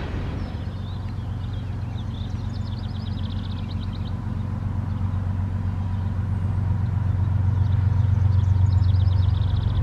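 Diesel locomotive engine of a CSX freight train, a steady low rumble slowly growing louder as the train approaches. A bird gives a short rapid trill twice.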